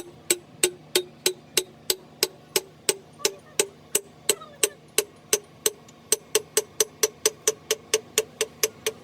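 Steady hammer blows on metal, about three a second and quickening to about four a second after about six seconds, each blow ringing briefly with a tone that rises slightly as the strikes go on.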